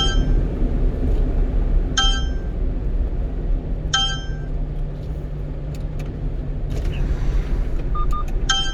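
In-car navigation alert chime, a bright ding repeated three times about two seconds apart and once more near the end after a short double beep, warning of an approaching speed-enforcement camera zone. Underneath is the steady low rumble of the one-ton truck's engine and road noise in the cab.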